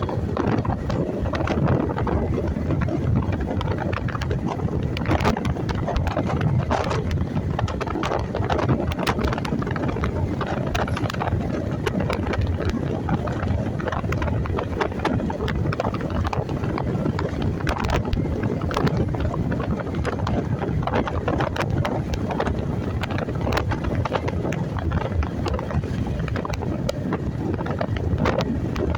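Wind buffeting the microphone on a moving motorcycle, over the steady rumble of the ride, with scattered crackles throughout.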